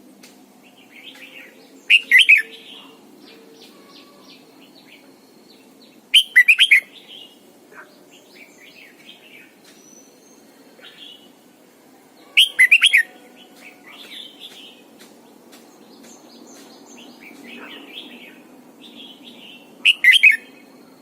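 Red-whiskered bulbul singing: four loud, short warbling phrases several seconds apart, with softer chirps between them.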